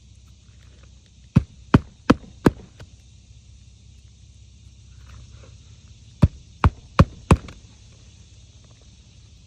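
Hammer driving roofing nails through a shingle: two runs of four sharp, evenly spaced strikes, about one nail in the first half and one in the second.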